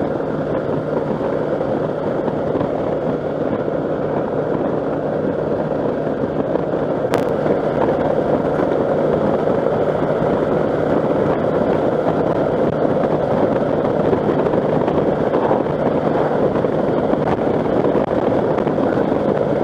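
Steady wind noise rushing over a rider on a moving Kawasaki motorcycle, with a low steady hum underneath, the wind noise the rider is trying to cut down. A single sharp click about seven seconds in.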